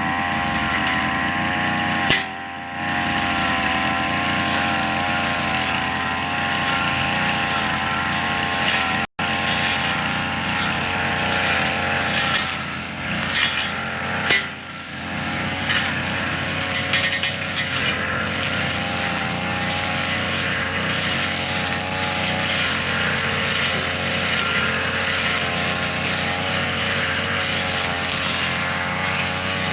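Tanaka two-stroke brush cutter engine running steadily, its pitch wavering slightly, with a brief dip about two seconds in.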